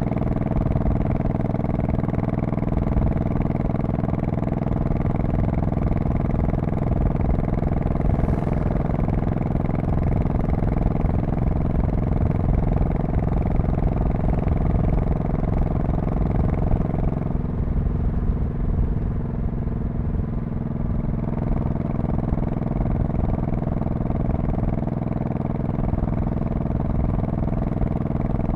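2002 Honda Shadow Spirit VT1100C's V-twin engine running steadily under way, its exhaust note holding an even pitch with a slight dip in level about two-thirds of the way through.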